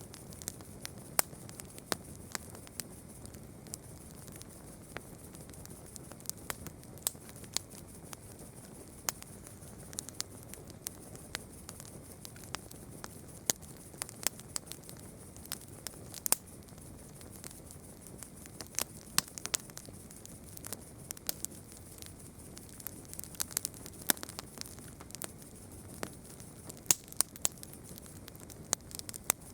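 Wood campfire crackling, with irregular sharp pops and snaps several times a second over a steady high-pitched hiss.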